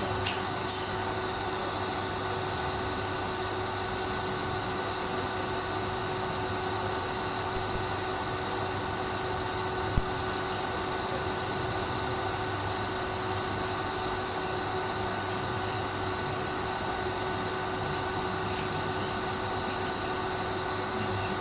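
TIG welding arc burning steadily, a constant hiss with a steady buzz. There are a few sharp crackles right at the start and a single click about ten seconds in.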